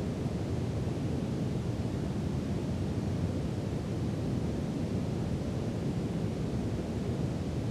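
Steady brown noise: a continuous, even rumble-like hiss weighted toward the low end, with no changes or events.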